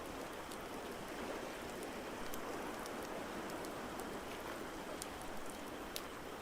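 Crackling wood fire, with sharp pops scattered irregularly over a steady rushing wash of noise.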